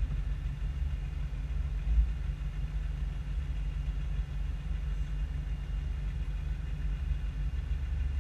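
Toyota Land Cruiser 120's engine idling steadily, heard from inside the cabin as a low rumble, with a brief thump about two seconds in.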